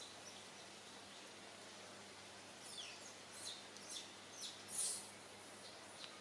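Small birds chirping: a run of short, high, falling chirps in the second half, over faint steady outdoor background noise.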